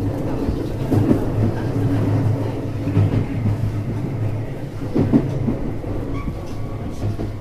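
Interior sound of a JR West 321 series electric train car standing at a station platform: a steady low hum from the car's onboard equipment, with a few dull knocks spaced a couple of seconds apart.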